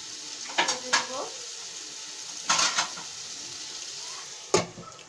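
Small potatoes and dried fish frying in oil in a steel pot, a steady sizzle with a few short metallic scrapes. About four and a half seconds in, a metal lid goes on with a sharp clank, and the sizzle turns quieter and muffled under it.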